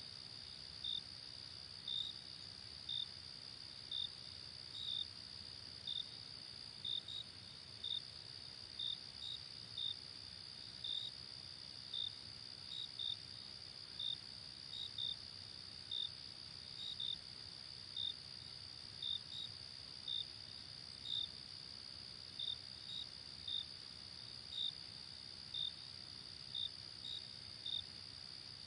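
Night insect chorus: a steady high-pitched trill, with a cricket chirping over it about once a second, sometimes in quick pairs.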